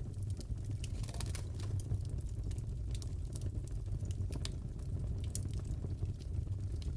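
Crackling fireplace ambience: a steady low rumble of burning logs with scattered sharp pops and crackles.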